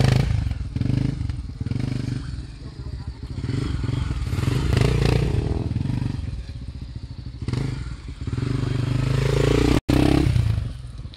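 Honda Tornado 250's single-cylinder four-stroke engine revving up and falling back again and again as the bike is ridden hard through tight gymkhana turns. The sound drops out for an instant near the end.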